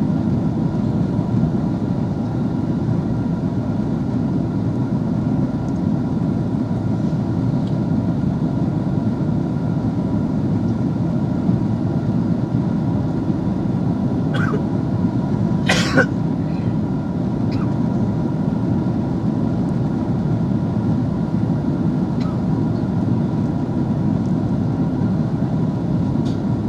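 Steady cabin noise of an Airbus A330-300 in flight on its descent: the even, low rush of the engines and the air over the fuselage. About two-thirds of the way through, two short sharp sounds come a second and a half apart, the second the louder.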